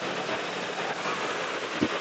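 Motorcycle on the move: engine running under a steady rush of wind and road noise on the mic, with one short knock near the end.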